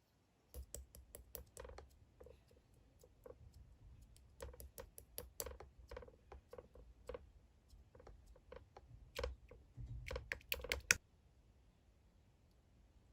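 Slime being squeezed and poked by hand, giving an irregular run of sticky clicks and pops that then stops.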